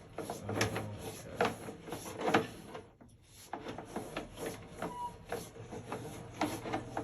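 A run of irregular mechanical clicks and rubbing, about three a second, with a brief pause about three seconds in, over a faint steady high whine.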